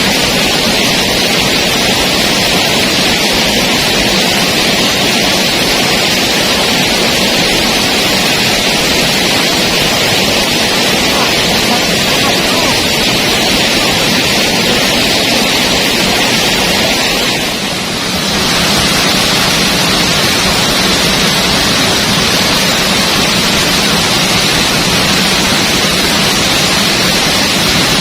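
Steady, loud rush of a waterfall, which dips briefly about two-thirds of the way through.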